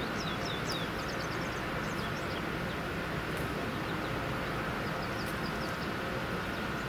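Small birds chirping in quick, short notes on and off over a steady outdoor rumble, with a faint constant high hum underneath.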